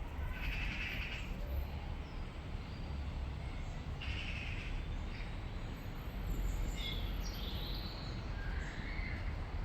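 Birds calling in short, harsh bursts, several times and spread apart, over a steady low rumble.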